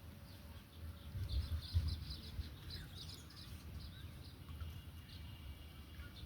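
Small birds chirping outdoors, with a quick run of short high chirps about a second in. Low rumbling bumps run underneath.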